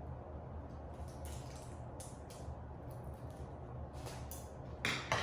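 Packaging wrap being rustled and crinkled by hand as a model horse is unwrapped, in short intermittent bursts, with a louder sharp handling noise near the end over a steady low hum.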